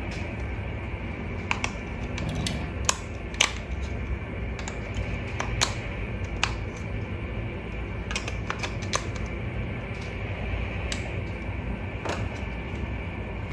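Irregular sharp clicks and taps, about fifteen, over a steady low hum.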